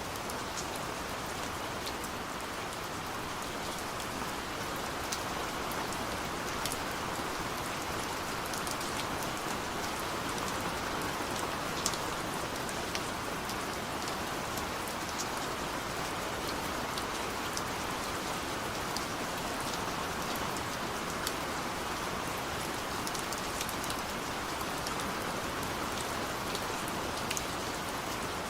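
Steady rain falling, an even hiss, with single drops ticking sharply here and there.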